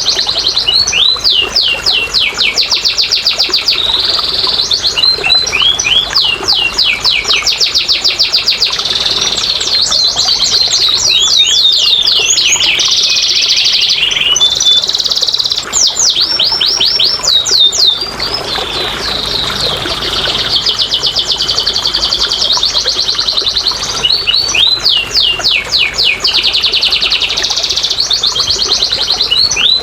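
Domestic canary singing a long, continuous song of rapid, high trills and rolls.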